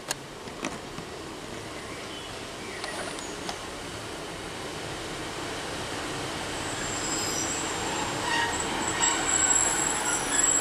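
Class 150 Sprinter diesel multiple unit running into the station platform, its engine and rail noise growing louder as it comes closer. A high-pitched squeal sets in about two-thirds of the way through as it slows. A few sharp clicks come near the start.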